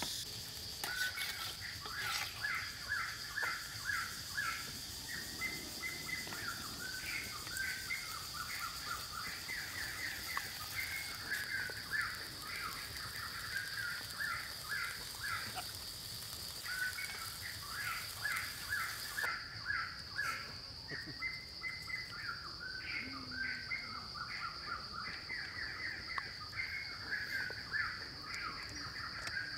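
Birds chirping continuously in quick runs of short repeated calls, over a steady high-pitched whine.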